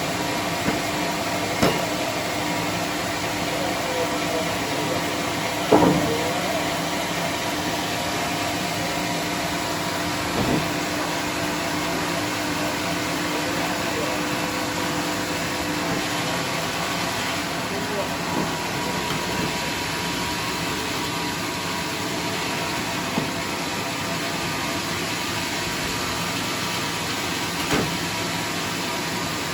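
Sawmill machinery running steadily, a constant mechanical hum and rush with a few sharp knocks of wood or metal; one steady hum tone drops out about halfway.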